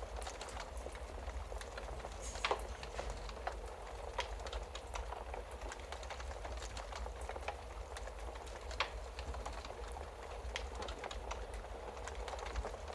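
Wood fire crackling in a fireplace: a steady hiss with frequent small snaps and pops over a low rumble, and a louder pop about two and a half seconds in and another near nine seconds.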